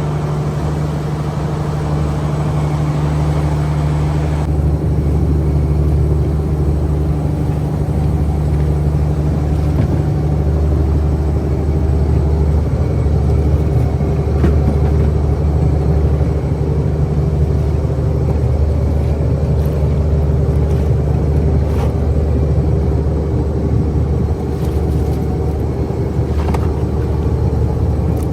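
Fishing boat's engine running steadily at a constant speed, a low, even hum, with a hiss of water and wind that eases off about four seconds in.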